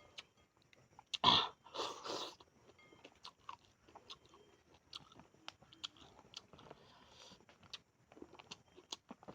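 Close-up eating sounds of a person chewing fried tamban sardines with corn rice: two louder bites a little over a second in, then soft, irregular chewing clicks and mouth smacks.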